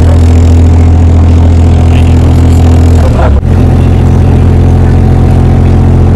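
Canal tour boat's motor running steadily and loud, with a brief dip and change in pitch about three seconds in.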